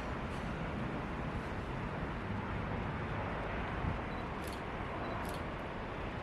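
Steady rumble of a jet airliner's engines, with two brief faint ticks in the second half.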